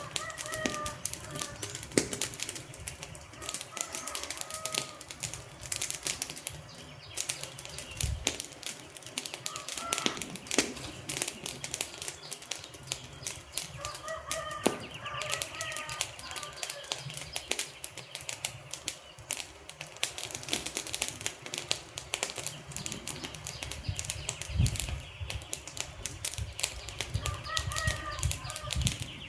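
Wood fire crackling, with frequent sharp pops and snaps over a low rumble of burning. A bird gives short calls a few times in the background.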